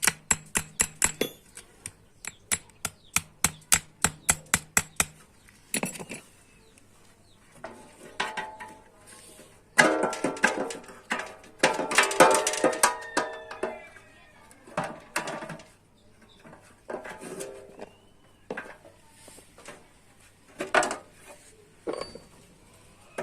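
Hammer striking a sheet-metal bread pan in a fast even run, about four blows a second, for the first five seconds. Then come scattered knocks and a few seconds of clanging, ringing metal as the pan is worked and handled.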